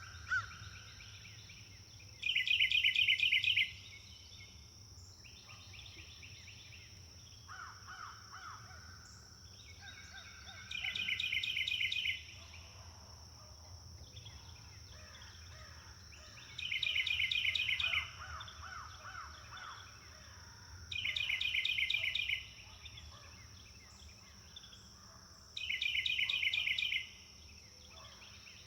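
Birds singing: a loud, rapid trill about a second long comes five times, every four to five seconds, with softer, lower trills between, over a steady high-pitched tone.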